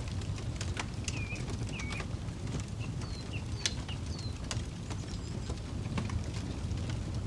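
Wood campfire crackling, with scattered sharp pops and snaps over a steady low rumble. Several short bird chirps sound in the first half.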